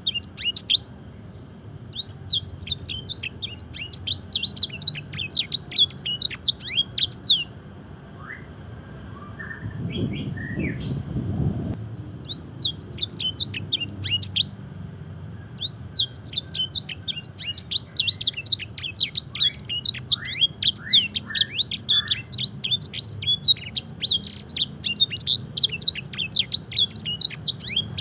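Domestic canary singing fast, continuous phrases of high, quick downslurred notes, a canary song with blackthroat-style fill. The song breaks off for several seconds about a third of the way in, when a few lower notes and a short low rustle are heard, then resumes without a pause.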